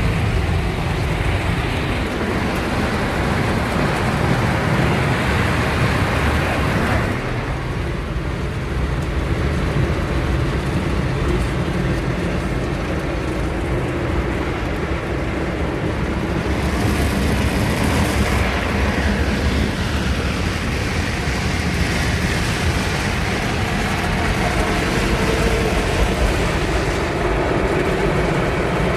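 Automatic tunnel car wash running, heard from inside the car: the steady rumble and hiss of the wash machinery and water on the body. The sound changes character about seven seconds in as the car moves between wash stations.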